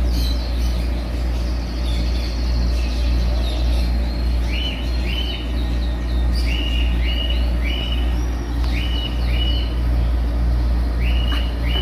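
Caged pet-shop birds chirping: short high calls, often in quick pairs, repeating every second or so over a steady low hum.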